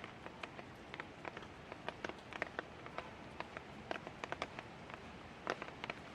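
Light rain falling: a steady soft hiss with frequent irregular drop taps.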